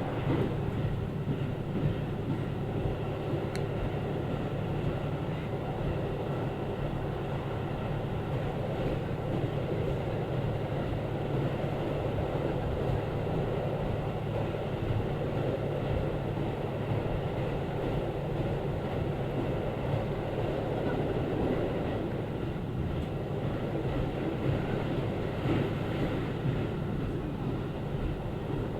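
Diesel local train running steadily along the line: a constant engine drone with rolling wheel-on-rail noise.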